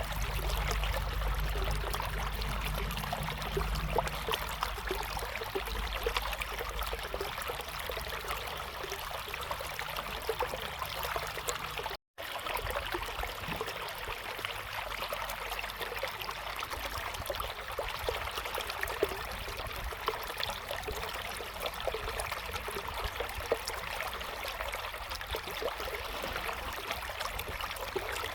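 River water flowing steadily over stones, an even rushing and trickling, with extra low rumble in roughly the first ten seconds. The sound drops out completely for an instant about twelve seconds in.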